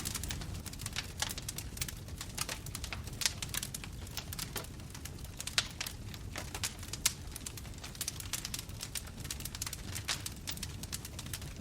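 Bonfire burning with constant irregular wood crackling and occasional louder pops, over a low steady rumble of the flames.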